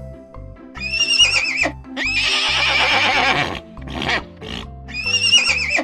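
Horse neighing: a high, quavering whinny, then a longer, rougher neigh, then a second quavering whinny near the end, over light background music.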